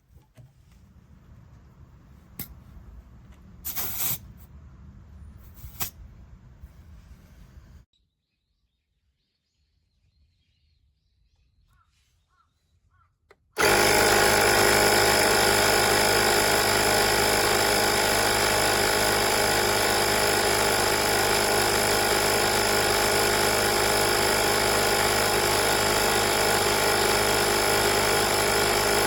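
A few handling clicks, then, about halfway through, an Oasser portable air compressor switches on abruptly and runs with a loud, steady, even drone.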